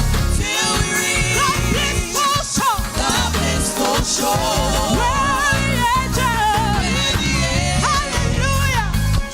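Gospel praise team and band performing a hymn live: a lead voice sings wavering runs with heavy vibrato over a full band with a pulsing bass.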